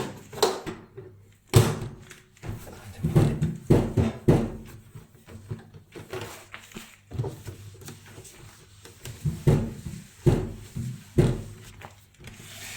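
A series of irregular thunks and knocks as hard parts are handled and set back in and around a microwave, some with a heavy low thud.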